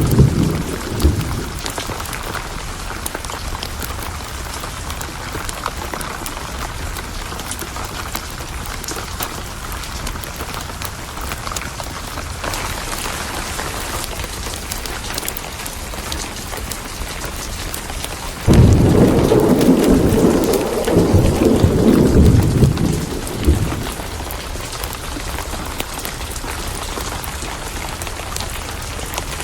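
Steady rain falling while a thunderstorm rolls through. A roll of thunder dies away at the start; then a thunderclap breaks suddenly about eighteen seconds in and rumbles on for about five seconds before fading.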